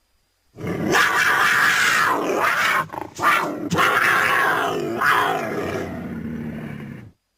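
Designed creature vocalization for a Theriognathus: one long call of about six and a half seconds, starting about half a second in, with a brief break near the middle and a sudden cut-off near the end.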